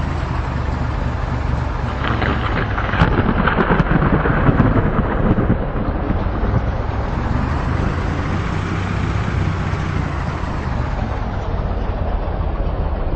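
Steady low rumble of a vehicle engine, with a louder rushing, crackling stretch from about two to six seconds in.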